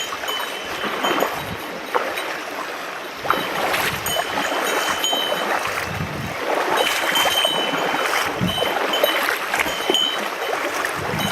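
Mountain stream running, with irregular splashing as someone wades across it.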